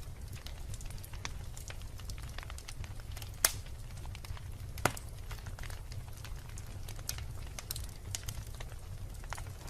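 Wood fire of burning logs crackling over a steady low rumble, with scattered sharp pops, two of them louder, about three and a half and five seconds in.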